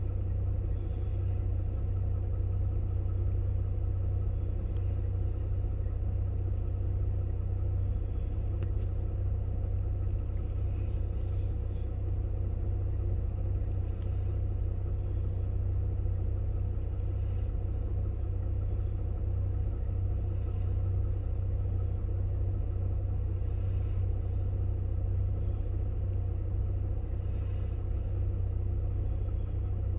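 A steady low rumbling drone, even and unchanging throughout, like a motor running nearby.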